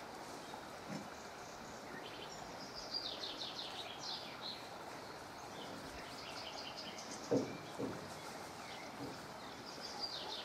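Small birds twittering in quick runs of high chirps over steady outdoor background noise, with two short knocks about seven seconds in.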